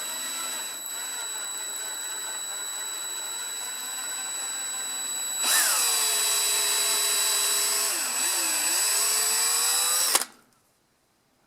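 Electric drill running with a 9/64-inch bit, drilling out an old fuel line gummed in place. About five and a half seconds in it gets louder and its whine drops in pitch as the bit bites and the motor slows under load; it dips once more briefly, then stops near the end.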